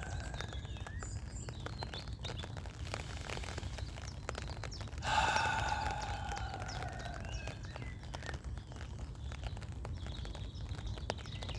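A long, audible sighing out-breath about five seconds in, fading away over a couple of seconds, as part of slow deep breathing. Faint bird chirps come now and then over a steady low outdoor rumble.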